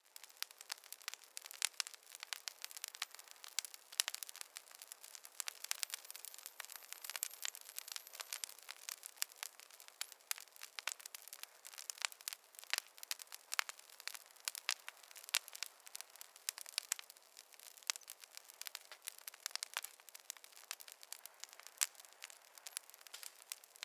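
Wood fire burning, crackling with a dense, irregular run of sharp pops over a soft hiss.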